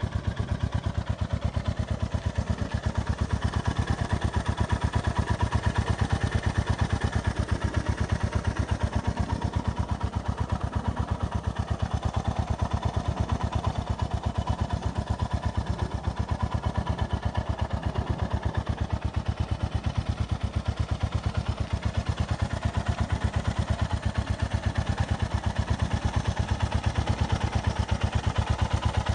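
Honda GB350S's air-cooled single-cylinder engine idling through an aftermarket carbon muffler, a steady, even run of exhaust pulses.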